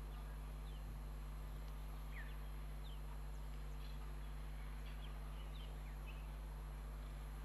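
Wild birds giving short, scattered high chirps over a steady low hum.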